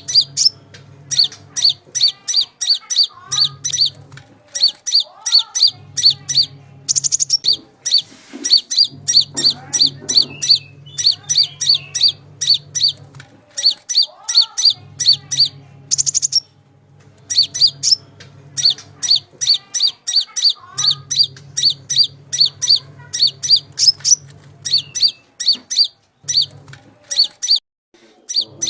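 A konin, the small songbird of Indonesian bird-keepers, singing a recorded masteran song: rapid runs of sharp, high chirping notes, several a second, repeated phrase after phrase with short pauses between.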